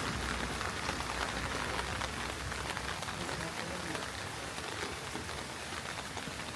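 Heavy rain falling on a city street: a steady hiss with many scattered drop ticks.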